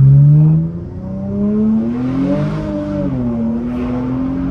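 Infiniti Q50's twin-turbo V6 with its muffler deleted, accelerating. The engine note climbs in pitch, drops away about a second in as the revs fall, then climbs again and holds steady.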